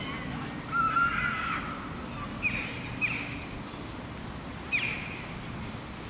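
Birds calling in the open air: a louder run of calls about a second in, then short single calls repeated a few times, over a steady low background noise.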